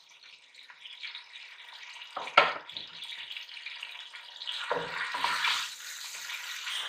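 Chopped onions and garlic paste sizzling in hot oil in a metal pot, the sizzle growing louder. A sharp knock comes a couple of seconds in, then a wooden spoon scrapes and knocks against the pot as the onions are stirred.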